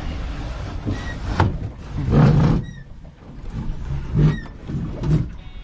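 A wupeng boat being sculled with its yuloh oar: a short faint squeak comes about every two seconds with the strokes, over dull low knocks and water noise.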